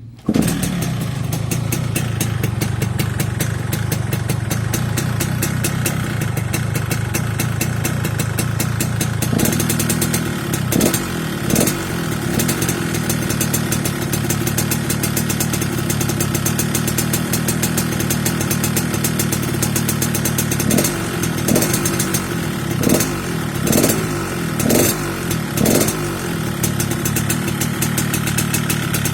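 Yamaha RX-King's single-cylinder two-stroke engine idling, with a few short throttle blips around ten seconds in and a cluster of them around twenty-one to twenty-six seconds. Fitted with a new-model air filter, it has a crisp, snoring 'ngorok/garing' note.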